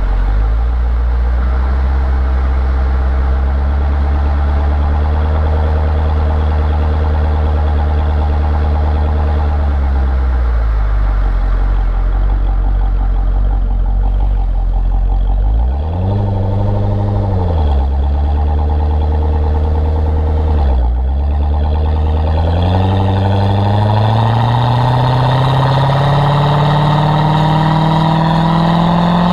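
Chevrolet Corvette C6's V8 engine running steadily. It dips in pitch about ten seconds in, rises and falls briefly near the middle, dips again, then climbs smoothly and steadily in pitch through the last third, like the car pulling up through the revs under the automatic gearbox.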